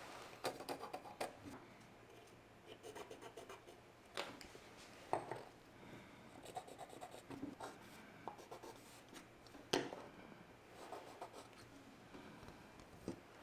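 Light scratching and rubbing with scattered sharp knocks: hand work on wooden parts.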